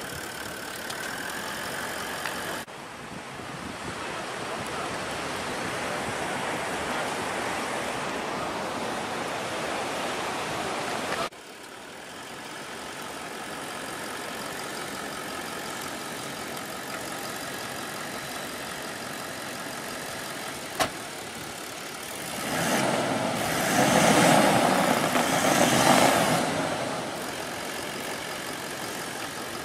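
Four-wheel-drive engine running, with a louder surge of revving for about five seconds near the end. The sound breaks off abruptly twice along the way.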